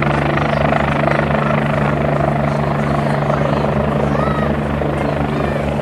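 Helicopter rotor and turbine running close by, a loud steady rotor beat with a continuous low hum.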